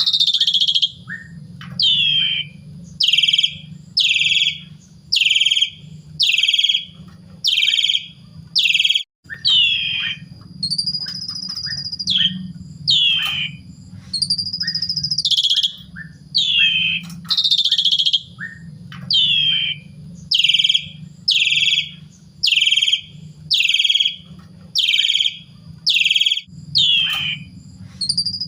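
Asian pied starling (jalak suren) calling steadily, about one loud call a second. Most calls are short downward-sweeping notes, with a couple of longer held whistles partway through, over a steady low hum.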